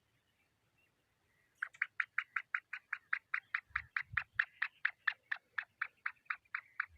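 Francolin calling: a rapid, even series of short sharp notes, about five a second, starting about a second and a half in and running on. A couple of low thuds sound about four seconds in.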